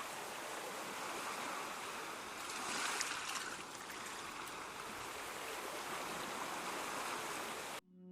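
Ocean surf washing ashore as a steady rushing hiss, with one wave swelling louder about three seconds in. It cuts off abruptly near the end, and soft ambient music begins to fade in.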